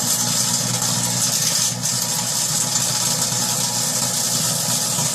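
Microwave oven running with aluminium foil on the bare metal floor of its cavity, the foil arcing: a steady electrical hum under a continuous hissing crackle of sparks.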